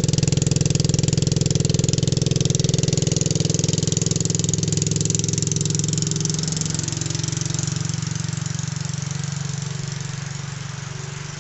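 Dirt bike engine running steadily, then growing gradually fainter through the second half as the bike moves off.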